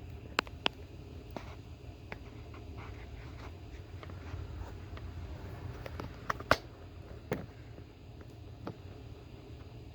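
Scattered light clicks and taps from handling small hard objects, about eight in all, the loudest a little past the middle, over a low steady hum.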